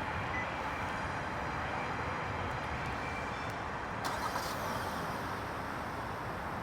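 2024 Kia Sorento's 2.5-liter four-cylinder engine idling steadily after a remote start, with a brief swell about four seconds in.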